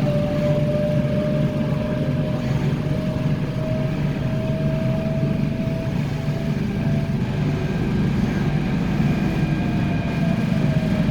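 MTR Tung Chung line K-train, a Korean-built electric multiple unit, running along the line with a steady low rumble. A single steady electric whine from the traction equipment drifts slightly in pitch over it.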